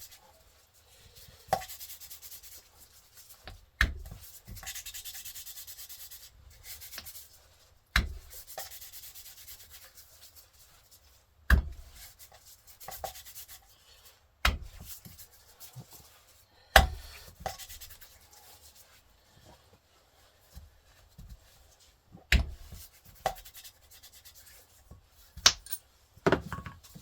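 Valve being hand-lapped into its seat in a Volvo 1.8 (4184S11) cylinder head with fine-grit lapping compound: a gritty rubbing as the valve is twisted back and forth on the seat, broken every few seconds by a sharp tap. The rubbing is fainter in the second half, and its tone changes as the seat surface becomes smooth.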